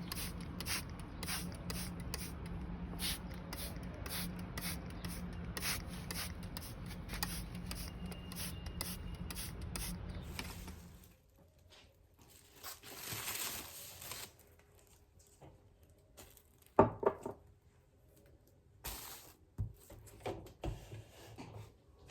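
Rhythmic rubbing and scraping, about two to three strokes a second over a low hum, that stops about halfway through; then quieter handling sounds with one sharp knock.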